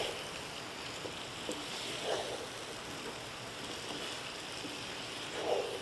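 Chicken pieces in an onion and Kashmiri chilli masala sizzling steadily in a pan over a medium flame, with a couple of soft stirring sounds.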